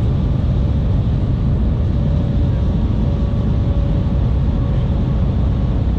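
Steady low rumble of cabin noise aboard the Shanghai maglev train at speed, with a faint steady hum above it.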